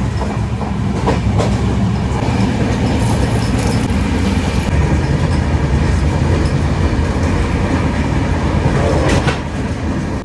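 Passenger express train running on the rails: a steady rumble of the coach and wheels, with a few sharp clicks.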